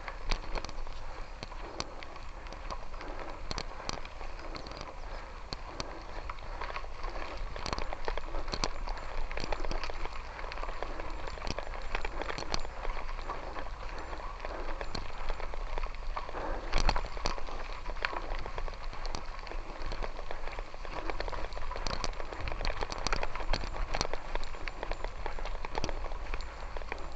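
Wheels rolling over a gravel road: a steady crunching noise with many irregular clicks and knocks, louder for a moment about two-thirds of the way through.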